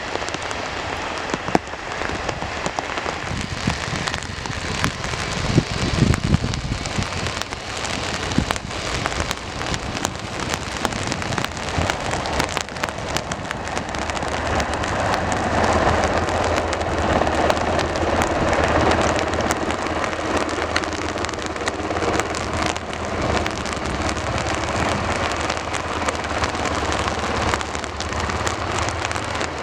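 Steady rain falling, with many sharp drop hits close to the microphone, growing louder from about halfway.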